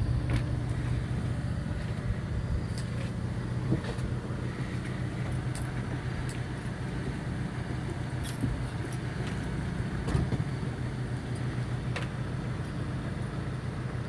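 Fishing boat's engine running at a steady low hum, with a few faint clicks and knocks.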